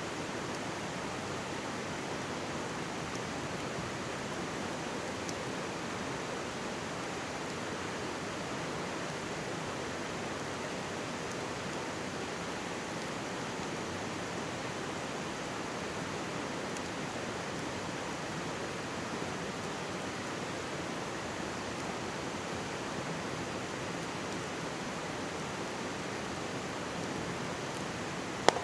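Mountain stream rushing steadily close by, with a wood campfire crackling faintly over it. One sharp pop from the fire comes just before the end.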